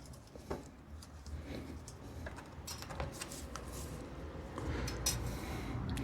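Faint scattered clicks and light handling noises from hand work on a motorcycle exhaust being fitted, with a low rumble of movement growing near the end.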